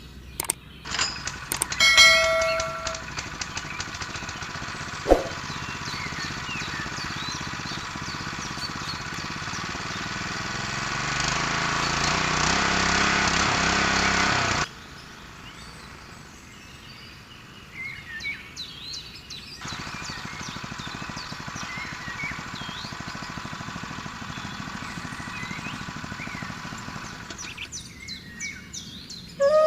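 A small motor runs steadily, growing louder, then cuts off suddenly about halfway through. Birds chirp over quiet outdoor background noise for the rest.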